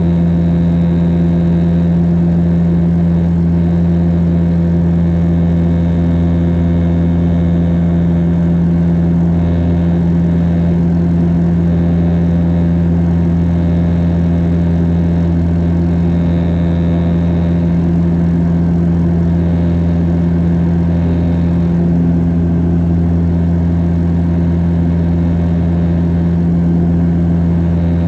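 Cabin noise of a Bombardier DHC8-Q400 turboprop in flight: the propellers and engines keep up a steady, loud drone with a strong low hum and no change in pitch.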